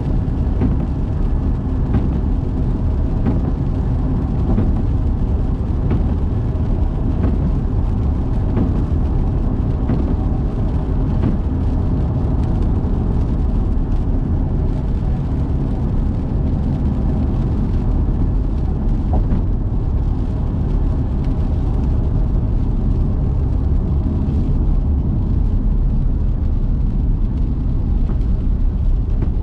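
A car driving: a steady low rumble of engine and tyre noise, with a faint hum and no changes in speed or pitch.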